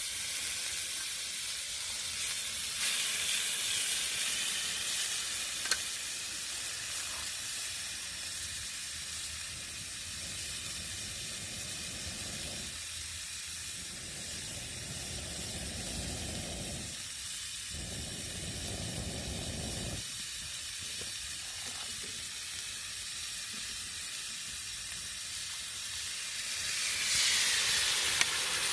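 Food sizzling and frying steadily on a hot cooking surface over a campfire, a continuous hiss that swells briefly a little after the start and again near the end.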